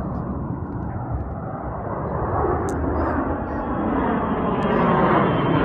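Airplane engine noise growing steadily louder and brighter as the aircraft draws closer.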